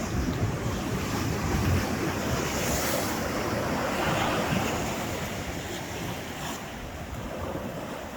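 Ocean surf breaking and washing up the shore, one wave swelling about three to four seconds in and then easing off, with wind rumbling on the microphone.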